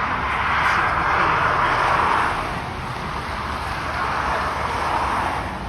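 Tractor engines driving past, swelling in loudness twice: once in the first two seconds and again near the end.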